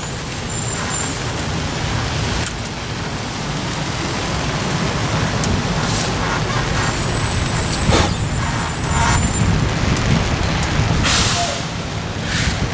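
Street traffic: a steady rumble of passing engines and tyres, with a thin high brake squeal in the middle and a short hiss of truck or bus air brakes near the end.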